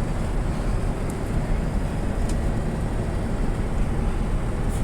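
Steady cabin noise of a Boeing 787-9 airliner in cruise: an even low rumble of engines and airflow, with a few faint clicks.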